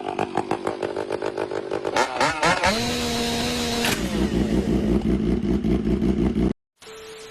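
A motor vehicle engine running with a fast pulsing beat. A pitched tone rises and holds briefly in the middle, and the sound cuts off abruptly near the end.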